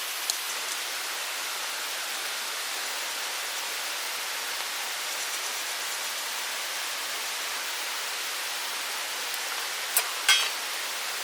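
Steady rushing of a mountain stream, with a light click just after the start and two sharp, louder clicks close together near the end.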